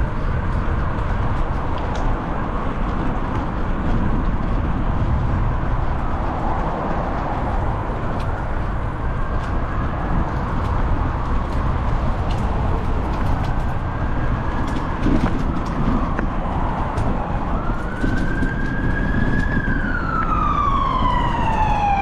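Ambulance siren wailing with its pitch sweeping slowly up and down, faint at first and much louder over the last few seconds as it draws near. Under it, a steady rumble of wind on the microphone of a moving bicycle.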